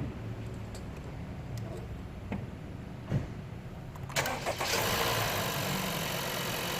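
Car engine with a dead battery cranking and starting on a portable jump starter's boost. A few light clicks come first, then about four seconds in the engine catches and runs steadily at idle.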